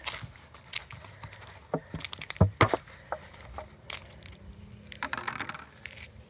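Unsalted peanuts being handled: a bag rustling and peanuts rattling and clicking, with a couple of louder knocks about two and a half seconds in.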